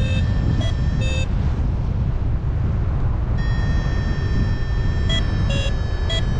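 Strong wind rushing over the microphone in flight, with a paragliding variometer beeping over it. There are a few short beeps in the first second or so, a steady held tone from about halfway, and more short beeps near the end, the variometer's signal of lift in a thermal.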